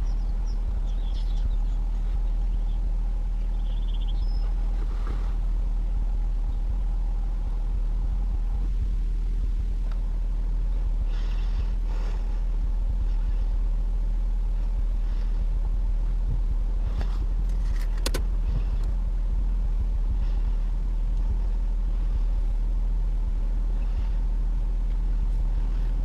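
Steady low rumble of an idling vehicle engine, with a few faint high chirps and a couple of sharp clicks.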